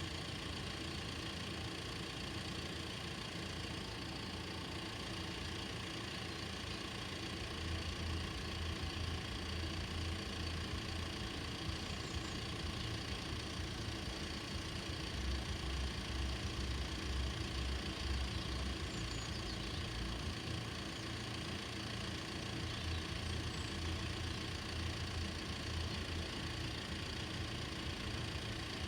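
A motor engine idling steadily, a low rumble with no sharp events.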